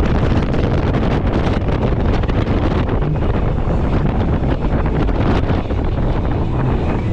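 Heavy wind buffeting the microphone on a fast-moving boat, over the steady run of its 90-horsepower Evinrude outboard motor.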